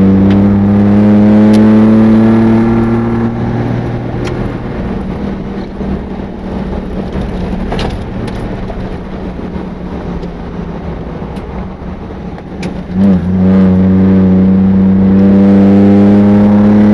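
Four-wheel-drive vehicle engine pulling hard, its note slowly climbing. A few seconds in it drops away to a quieter stretch of rough tyre and track noise with a few sharp knocks. About 13 seconds in the engine comes back loud and climbs again.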